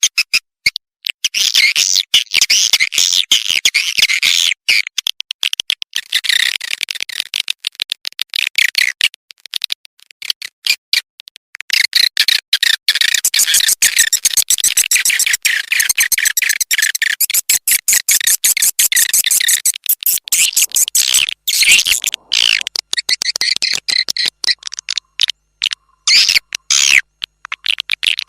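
Swiftlet calls played as a lure sound for attracting swiftlets to a nesting house: fast, dense high-pitched chirping and twittering in long runs. The chirping thins out about a third of the way through, then picks up again.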